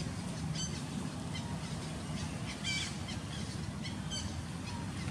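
Scattered short, high chirps of small birds, loudest a little under three seconds in, over a steady low outdoor rumble.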